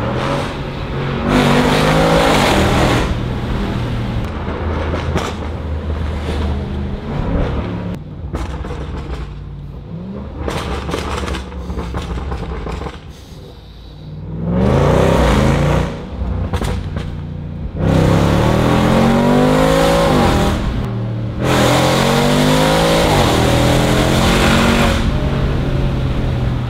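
Range Rover SVR's 5.0-litre supercharged V8 through a valved titanium exhaust with free-flow downpipes, heard from inside the cabin. It accelerates hard in several pulls, the pitch rising through each gear and dropping at each shift, with quieter off-throttle stretches in between.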